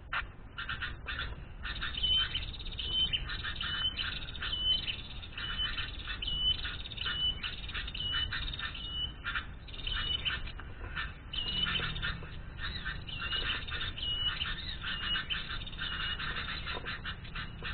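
Birds calling: a short high whistled note repeated over and over at an even pace, about once every second, over busy chattering and chirping.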